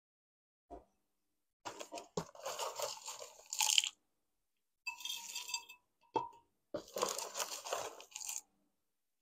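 Chunky soil mix of bark pieces being scooped from a plastic tub and packed into a glass pot around a plant's roots: three bouts of crunching and rustling, with two short knocks.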